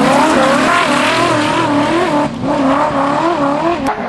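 Trophy truck's V8 engine running hard, its pitch rising and falling again and again as the revs are worked, with a brief drop about two seconds in.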